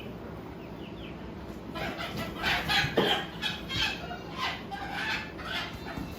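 A chicken clucking and cackling in a quick run of short, sharp calls starting about two seconds in, over a steady low hum.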